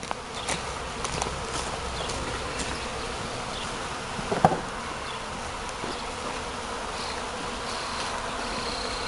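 A swarm of honeybees buzzing steadily around a hive box. The swarm has just been hived and the bees are still unsettled. One brief louder sound comes about four and a half seconds in.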